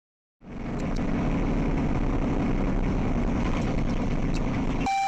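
Steady engine and road noise of a vehicle driving, picked up by a dash cam, starting suddenly about half a second in. Near the end a brief car horn sounds.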